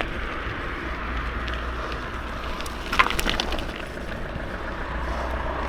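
Mountain bike rolling down a dirt forest trail, with tyre and wind noise on the rider's microphone. About halfway through comes a brief sharp crackle.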